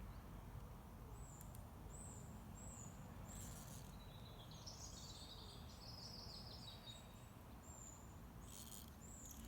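Songbirds calling: a series of short, high, down-slurred notes, then a longer warbling phrase in the middle and a few more high notes near the end, faint over a steady low rumble.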